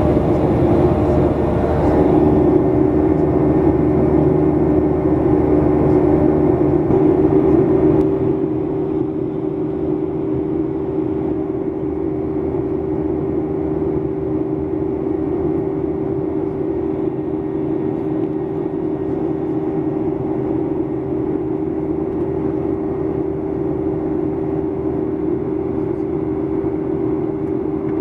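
Boeing 737-800 cabin noise: a steady drone of jet engines and airflow with a constant hum. The noise drops noticeably about eight seconds in and stays level after that.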